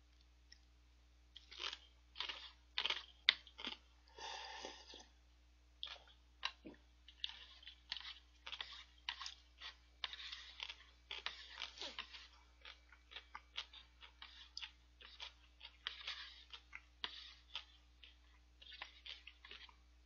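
A person chewing crunchy food close to the microphone: many short, crisp, irregular crunches and small mouth clicks, with a denser stretch of noise a few seconds in.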